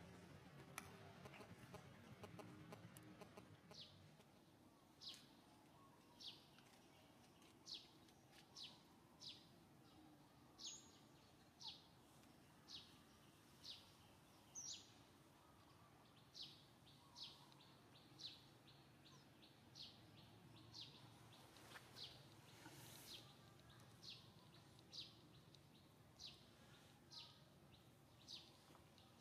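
Faint, short high chirps of a bird, repeating about once a second, beginning a few seconds in.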